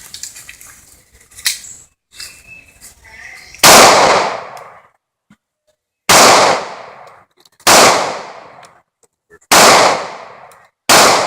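Five gunshots from a firearm, the first a little under four seconds in, then one every one and a half to two and a half seconds, each with a short echo dying away.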